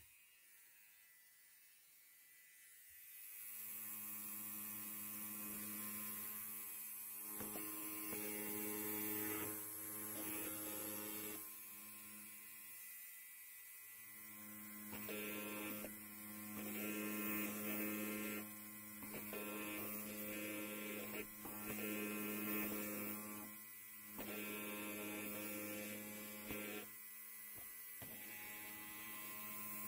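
Electric hair clipper buzzing, starting about three seconds in and running on with its loudness swelling and dipping, with brief drops in the middle and near the end.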